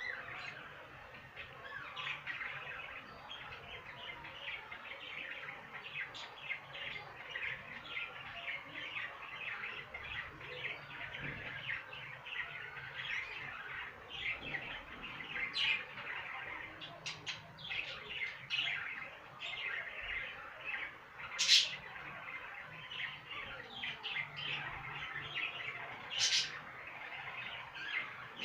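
Budgerigars chattering and warbling continuously in a busy stream of chirps. Two sharp, louder calls stand out, one about two-thirds of the way through and one near the end.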